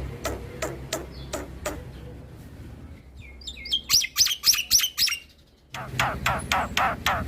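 Black-winged myna (jalak putih) singing: a run of clicking chatter notes at about three a second, then a burst of high chirps and whistles. After a short pause it gives a fast series of falling notes.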